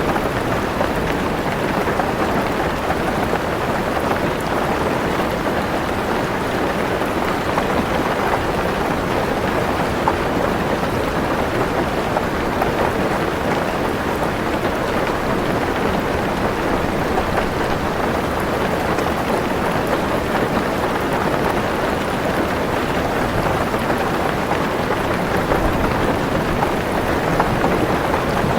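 Heavy rain falling on a car roof, a steady, dense patter of drops with no let-up.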